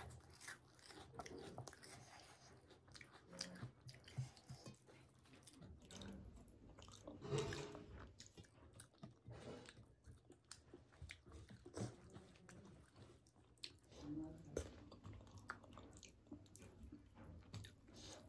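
Faint close-up chewing and lip-smacking of a person eating soft khichuri and egg curry, with soft squelches of fingers mixing the rice on a steel plate; scattered short smacks, a few of them louder.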